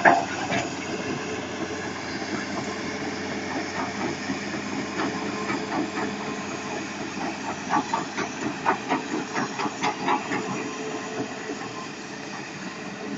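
Isuzu 6BG1 diesel of a Hitachi Zaxis 200-5G excavator running steadily with a hiss. A sharp knock comes at the very start, and a quick series of sharp knocks or clanks comes about eight to ten seconds in.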